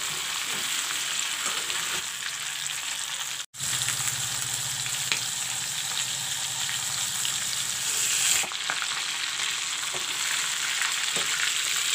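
A whole chicken sizzling in hot mustard oil in a metal kadai, with a metal spatula scraping and knocking against the pan as the bird is turned. The sizzle cuts out for an instant about three and a half seconds in.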